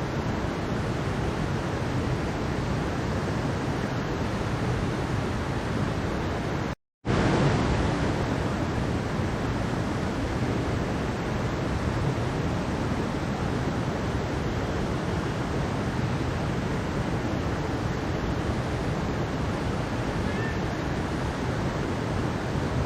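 Mountain stream water rushing in a steady, even wash. It cuts out completely for a fraction of a second about seven seconds in, then carries on.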